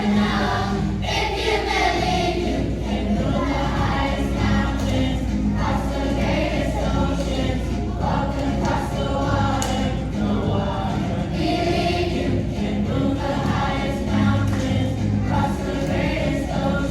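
A choir of young students singing a Christian song over musical accompaniment.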